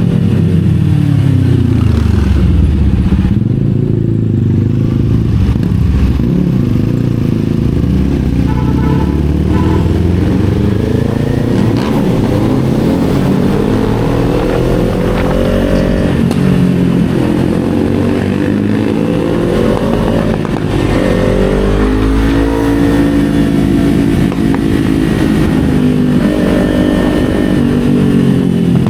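Kawasaki Z400's parallel-twin engine under way, its pitch rising and falling several times as the bike accelerates and slows.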